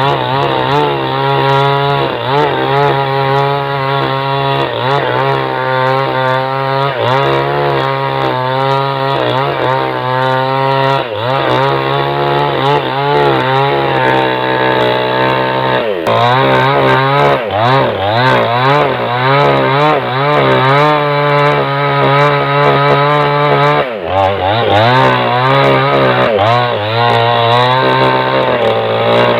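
Small chainsaw cutting into a log, its engine running at high revs with the pitch wavering under the load of the cut. The engine note dips briefly three times, then picks up again.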